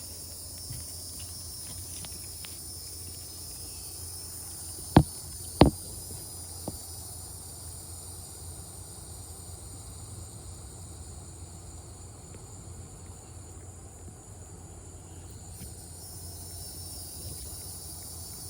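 Evening chorus of crickets and cicadas: a steady, high-pitched continuous drone. About five seconds in come two sharp clicks half a second apart, the loudest sounds here, followed by a fainter click a second later.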